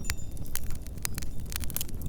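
Fireplace crackling, dense sharp pops, over a steady low rumble of blizzard wind, with a few small ringing clinks among the pops.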